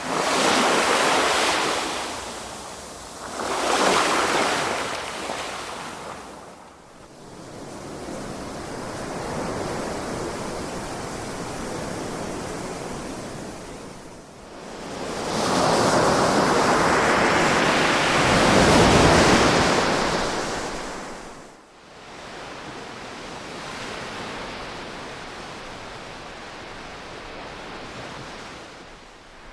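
Ocean waves washing onto a shore, surging and falling back in an uneven rhythm. Two quick surges come at the start, then a steadier wash, and the biggest wave breaks about fifteen to twenty seconds in before a softer wash follows.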